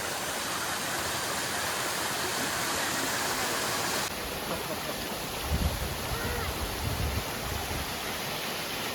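Waterfall rushing steadily, with a sudden change in the rush about four seconds in and a few low rumbles soon after.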